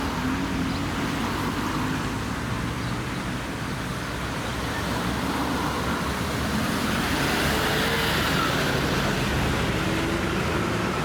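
Road traffic noise: steady running of passing cars, swelling as a vehicle goes by about seven to nine seconds in.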